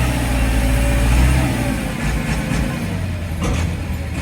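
Diesel tractor engine running under load while working a maize fodder cutter. The deep engine note is strongest for about the first second and a half, then eases back.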